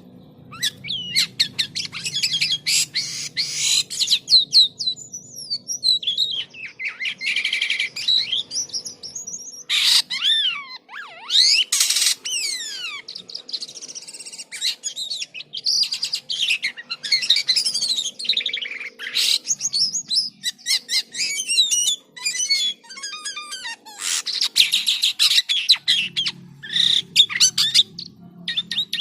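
Jalak kapas starling singing energetically: a long, varied run of chirps, rising and falling whistles and fast rattling trills, with hardly a pause.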